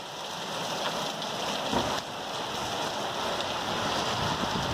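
Hard thunderstorm downpour: heavy rain hitting the ground, with water pouring off a roof edge. A steady rush that builds over the first second or two, then holds.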